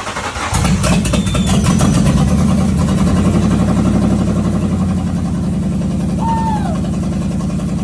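1999 Ford Mustang GT's 4.6-litre V8 running steadily just after its first start in six years, on six-year-old fuel. It catches about half a second in, grows louder over the next second or so, then eases slightly after about five seconds.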